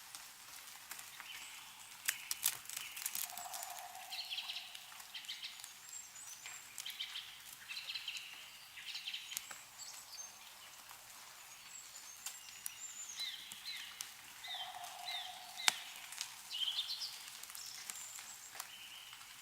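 Several small songbirds chirping and twittering over and over, with a lower call twice. Scattered sharp drips of meltwater fall from snow-laden trees, the loudest about three-quarters of the way through.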